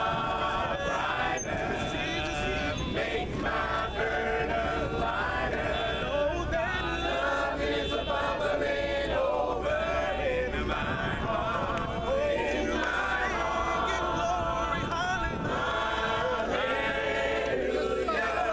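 A congregation singing a hymn a cappella, many voices together with no instruments.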